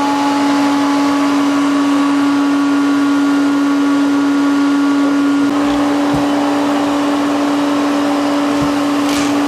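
Bee vacuum running steadily, its motor giving a constant hum over rushing air as bees are sucked up through the hose; the tone shifts slightly about five and a half seconds in.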